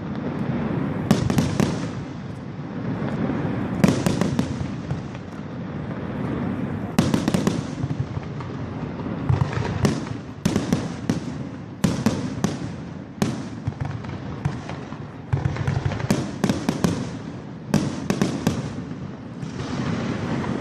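Aerial fireworks going off: a continuous low rumble with many sharp bangs and crackles at irregular intervals. The bangs come in quick clusters, densest in the second half.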